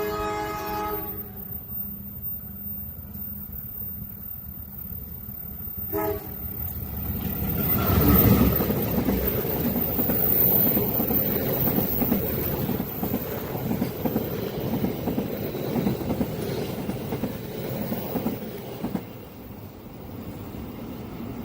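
A train horn sounds a blast that ends about a second in, then a short toot about six seconds in. A train then passes close by, a loud rumble with rhythmic wheel clatter that peaks just after the approach and eases off near the end.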